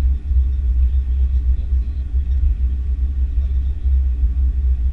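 Steady, loud low rumble of an Airbus A330-300 heard from inside the cabin: engine and airframe noise with no change in pitch.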